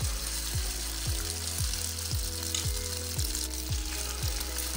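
Egg and shredded chicken patty mixture sizzling and frying in hot oil in a frying pan as spoonfuls are dropped in, a steady hiss.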